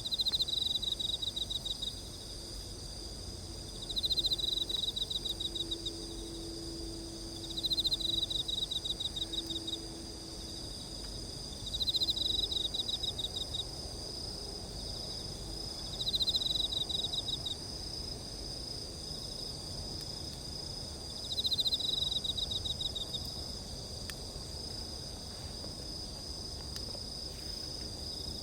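Insects calling: a steady high-pitched chorus, with one insect repeating a short pulsed chirping phrase about every four seconds, each phrase starting loud and fading.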